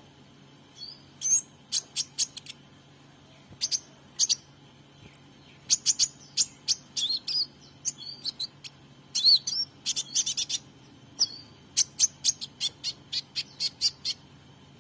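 Young sunbird practising its song: short, high chirps and quick little trills in irregular clusters, broken by pauses.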